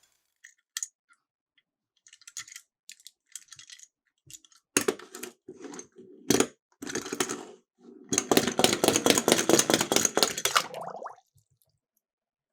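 Miniature toy cars clattering down a slope: scattered light clicks at first, then a rolling rattle with a low rumble, building to a dense, fast rattle for about three seconds before it stops.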